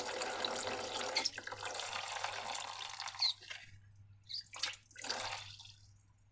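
Liquid pouring in a steady stream that tails off and stops about three and a half seconds in, followed by a few short splashy sounds.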